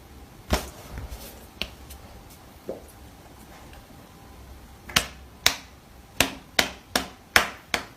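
Sharp knocks on something hard: a few scattered ones, then a quick run of about seven, roughly two a second, over the last three seconds.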